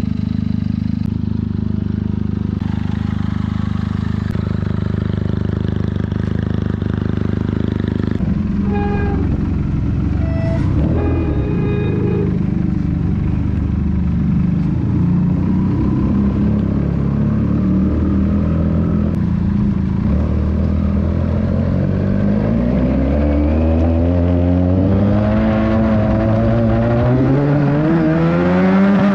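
Benelli 300 parallel-twin motorcycle engine through a loud exhaust. It runs steadily at first, revs up and down unevenly in the middle, then climbs in pitch under acceleration over the last several seconds before the pitch drops suddenly at the very end.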